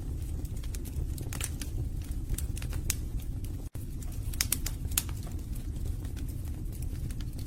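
Wood fire burning in a fireplace: logs crackling with frequent, irregular sharp pops over a steady low rumble of the flames. The sound cuts out for an instant about halfway through.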